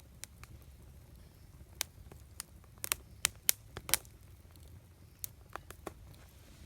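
Wood crackling and popping in a campfire: a scatter of sharp pops over a low steady rumble, busiest and loudest around the middle, with a few smaller pops later.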